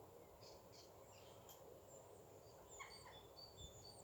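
Near silence, with faint, distant songbirds chirping in short repeated notes.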